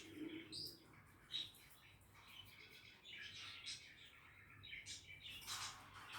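Budgerigars chattering quietly, with scattered short chirps and warbling notes coming in uneven clusters.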